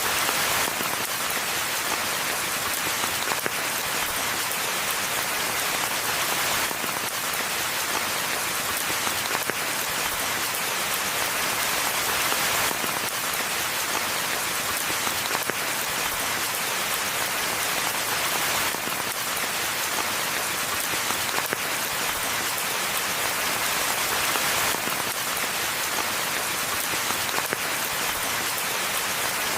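Steady rain falling on forest foliage and ground, a dense even hiss of many drops with no thunder, swelling and easing slightly every few seconds.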